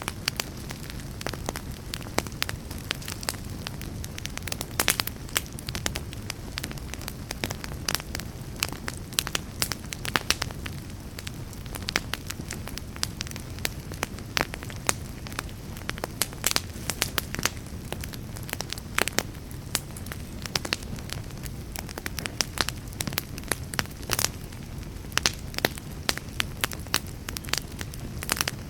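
Wood fire burning in a fireplace, crackling and popping irregularly over a steady low rumble of flame.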